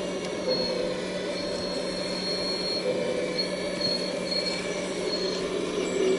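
Full-size excavator running steadily at work, with a high-pitched metallic squeal that comes and goes over the engine.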